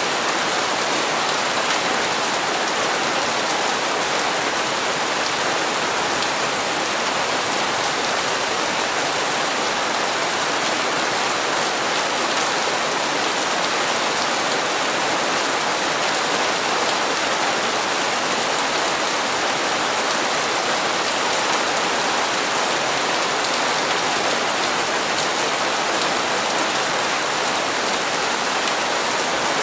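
Steady rain falling and pattering on hard surfaces, an even hiss of water with faint scattered drop ticks and no change in strength.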